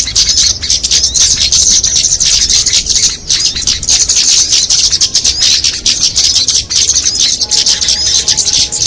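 Bird-lure recording of many small songbirds calling at once: a dense, continuous chatter of fast, high-pitched chirps and trills with no pause. The recording mixes several small-bird species' calls to draw wild birds in.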